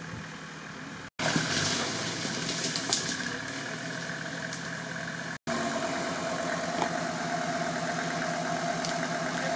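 Off-road 4x4's engine running steadily at low revs, with two brief cuts to silence about a second in and about five seconds in, after which it is louder.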